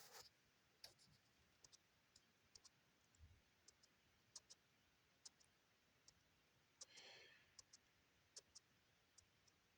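Near silence broken by faint, irregular clicks, roughly two a second, with a short soft rustle about seven seconds in.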